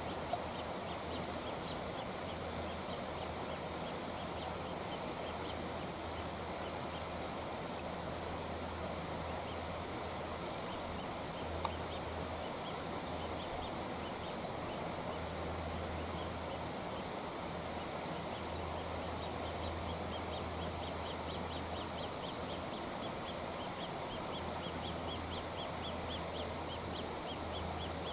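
Small creek running with a steady rush of water. Short, sharp, high bird chirps come about every two seconds, and a fast faint ticking joins in the second half.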